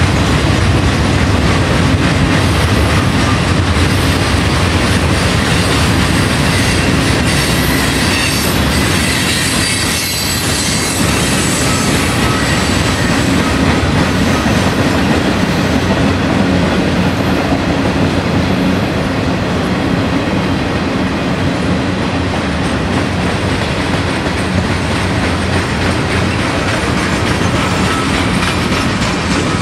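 Freight cars of a long train rolling past at steady speed, with a continuous rumble and clatter of wheels over the rail. Thin high wheel squeals cut in about a quarter to a third of the way through.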